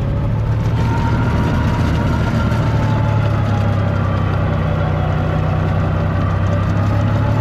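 Farm tractor engine running steadily while working a rear-mounted sheet-metal snowblower, with a faint whine that wanders slowly in pitch.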